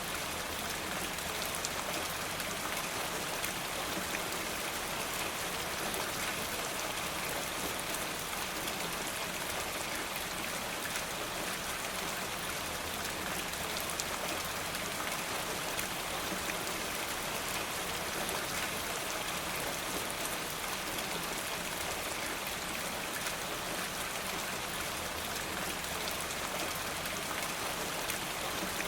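Steady rain falling, an even hiss that does not change, with a few faint ticks scattered through it.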